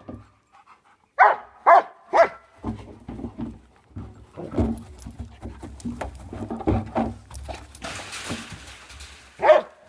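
Dogs barking while they attack a barrel: three quick barks about a second in, a stretch of lower, busier dog noise through the middle, a brief rush of noise around eight seconds, and one more loud bark near the end.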